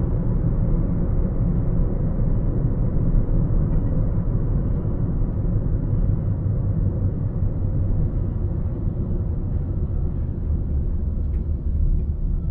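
Steady low rumble of a car driving: road and engine noise, with no sudden events.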